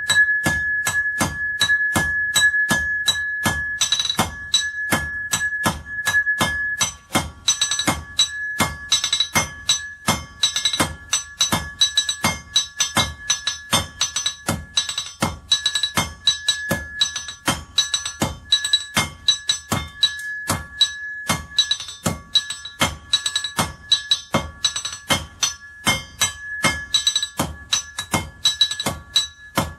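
Blacksmith's hammer striking iron on an anvil in a fast, steady rhythm of about three blows a second. Each blow rings with a sustained metallic tone.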